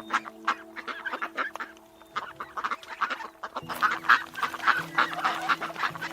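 A flock of waterfowl calling in many short, overlapping calls that grow denser about halfway through, over steady background music.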